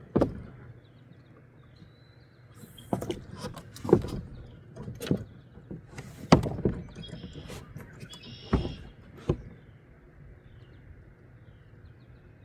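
Irregular knocks and clunks in a small jon boat, about seven of them spread over the first ten seconds, with quieter stretches between.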